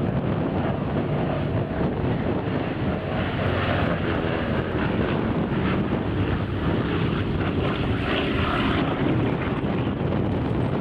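An airplane's engines running, a steady hum with some evenly pitched tones, and a broader noise that swells in the middle, with wind on the microphone.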